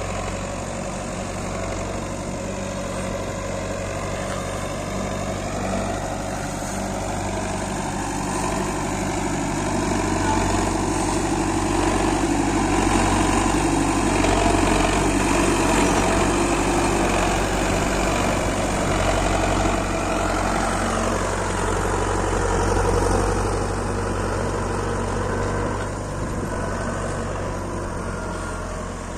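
Belarus 510 tractor's diesel engine running steadily, growing louder through the middle and easing off again near the end.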